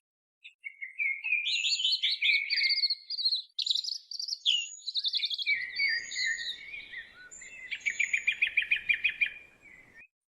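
Songbirds singing: quick trills and chirps, several songs overlapping, ending in a fast trill near the end.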